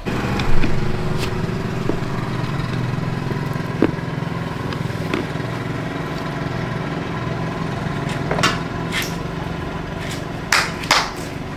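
Motorcycle engine starting and running steadily at idle, with a few sharp metallic clicks and taps over it, a cluster of them near the end.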